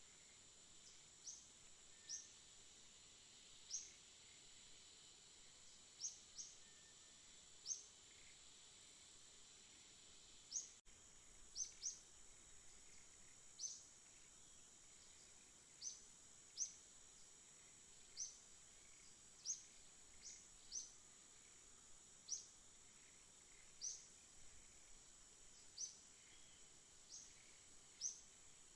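A bird chirping: single short, high chirps repeated every second or two, sometimes in quick pairs, over a steady high-pitched insect drone and faint outdoor hiss.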